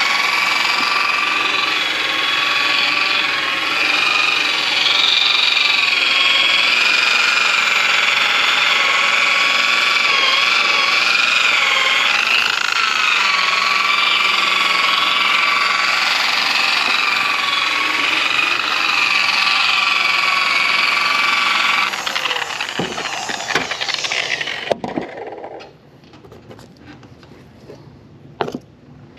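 Power tool motor running steadily with a slightly wavering whine, stopping about 22 seconds in, followed by a few knocks and clatter.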